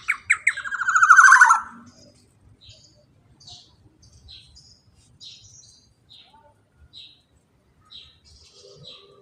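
Black-naped oriole calling: a loud, fast rolling trill lasting under two seconds that falls in pitch, followed by short, faint high chirps repeated about every three-quarters of a second.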